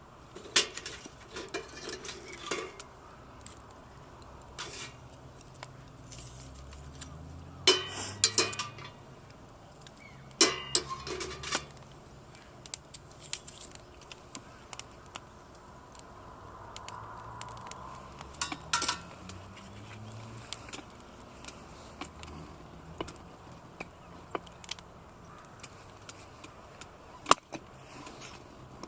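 Scattered clinks and clatter of metal camp cookware and utensils being handled, in bursts with pauses between. A faint low hum rises in pitch twice in the background.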